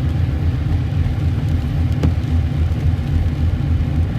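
Steady engine and road rumble inside a Jeep's cabin while it is being driven, with a faint click about two seconds in.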